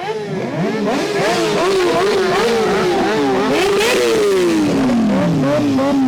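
High-revving vehicle engine blipped hard over and over, its pitch jumping up and dropping back several times a second, then falling in a long slide about four seconds in before climbing again.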